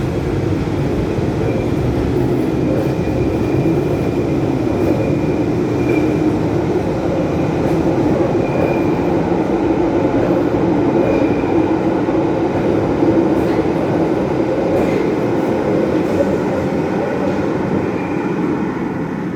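London Underground 1972 Stock train pulling out of a deep-level platform: a steady, loud rumble of wheels and running gear, with a faint high whine that comes and goes.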